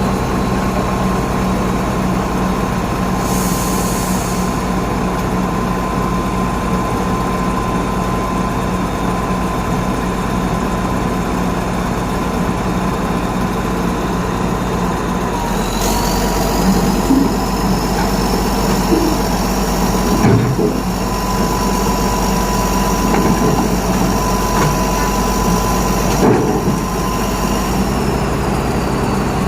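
Heavy diesel engine running steadily. About halfway through, a high whine rises, holds for around ten seconds, then drops away near the end, with a couple of clunks in between.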